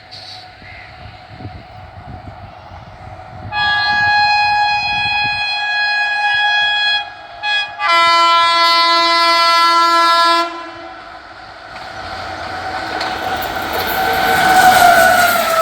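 Train horn sounding a long blast, two short toots, then another long blast, over the low rumble of an approaching train. Near the end the rush of the train grows louder as it closes in.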